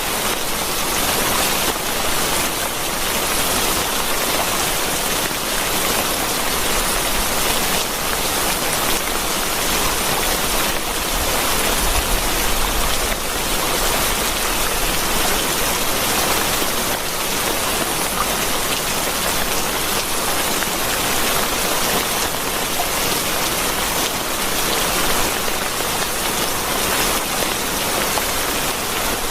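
Steady rain: an even hiss of many drops falling.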